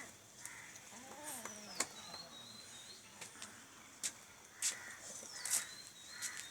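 A young animal gives one short cry that rises and falls in pitch about a second in, followed by several sharp clicks and thin high whistling sounds.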